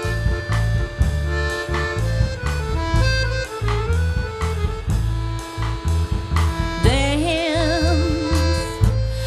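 Small jazz band playing an instrumental passage of a tango-style cover: accordion holding sustained notes over a pulsing double bass and drums keeping a steady beat. About seven seconds in, a new held note with a wide vibrato enters on top.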